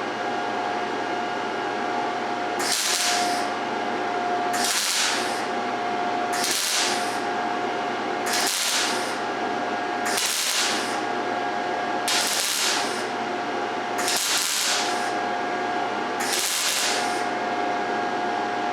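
MIG welder arc crackling in seven short bursts, about every two seconds, as the weld is laid in stitches, over the steady hum of the welder's cooling fan. The welder is set to 16.5 volts and wire speed 95 for a practice weld.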